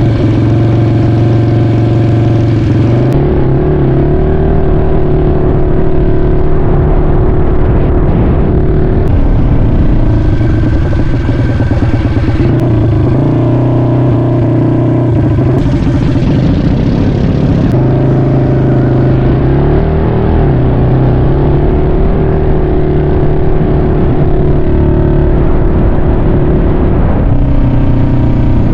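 Small single-cylinder mini bike engines running hard in a race, revving up and easing off so the pitch shifts every few seconds.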